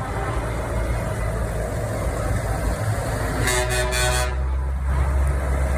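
Steady low rumble of heavy truck engines, with a truck air horn blasting for about a second, roughly three and a half seconds in.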